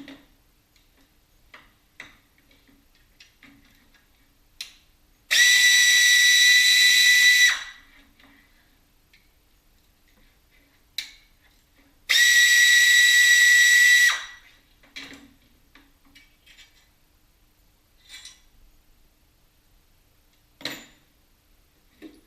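An air tool runs in two bursts of about two seconds each, a few seconds apart: a steady high whine over a hiss that starts and stops sharply. Faint clicks and knocks of tools handled come in between.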